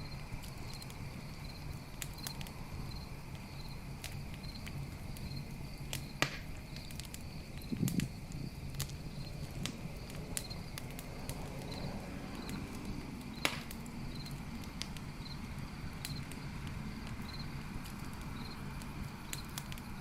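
Campfire crackling with scattered sharp pops, the loudest about six and thirteen seconds in, over crickets chirping in a steady regular pulse. A brief low thump comes about eight seconds in.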